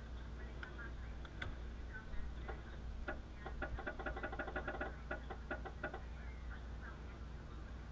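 Rapid, irregular light clicking and ticking, densest from about three to six seconds in, over a steady low hum.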